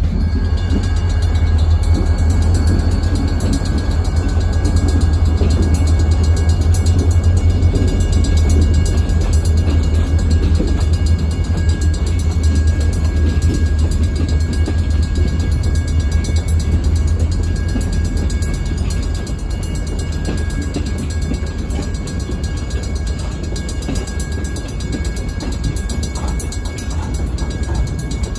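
Freight train passing a road crossing: diesel locomotives rumble by, then a long line of boxcars rolls past. The rumble eases a little about two-thirds of the way through. Steady high tones sound over it throughout.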